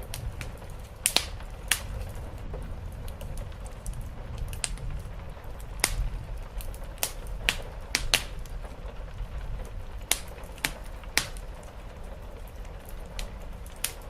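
Wood fire in a fireplace crackling, with a dozen or so sharp, irregular pops over a steady low rumble and a soft hiss of rain.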